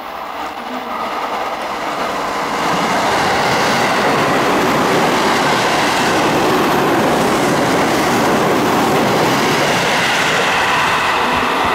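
Seibu 9000 series electric train passing through a station without stopping: the wheel-and-rail noise builds over the first few seconds as it approaches, then holds steady and loud as the cars run past.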